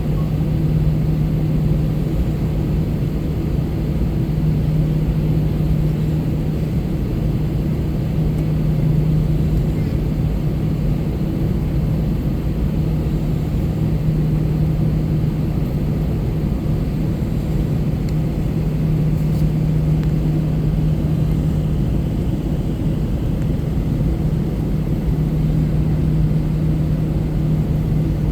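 Cabin noise of an Airbus A321-200 airliner: a steady, loud drone of jet engines and airflow with a constant low hum, unchanging throughout.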